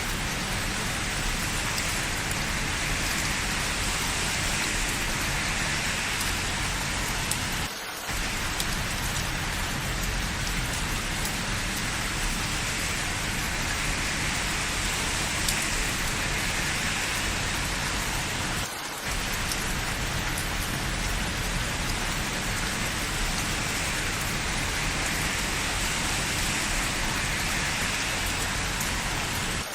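Steady rain falling, an even dense hiss that dips for a moment twice, about eight and nineteen seconds in.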